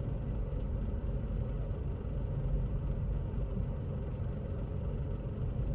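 Car engine idling steadily, a low even rumble heard from inside the cabin.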